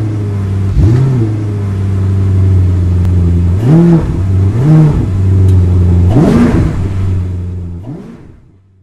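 Car engine sound effect: a steady low engine note with several quick throttle blips that rise and fall in pitch, fading out near the end.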